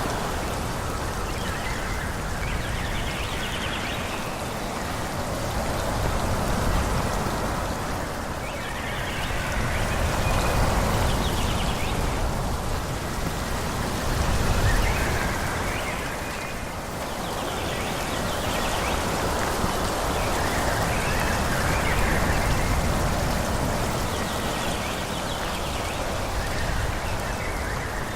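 Wind blowing through forest trees, a steady rush of moving leaves and branches that swells and eases in gusts every few seconds, with a low rumble underneath.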